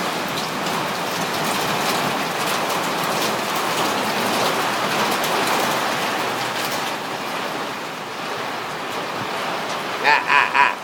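Hail and rain pelting down in a steady, loud hiss. Near the end a duck breaks in with a quick run of quacks.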